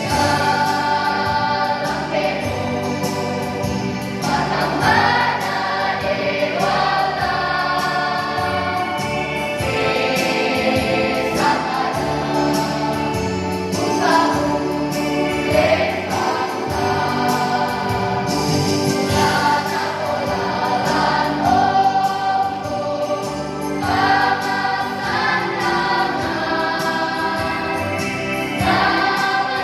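A choir of young junior high school students singing together, several voices holding and moving between notes in a continuous song.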